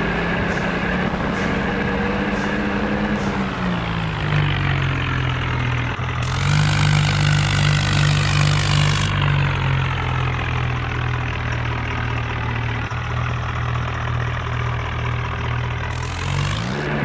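John Deere tractor's diesel engine running. Its pitch drops about three seconds in, holds steady and lower for most of the time, then climbs again near the end.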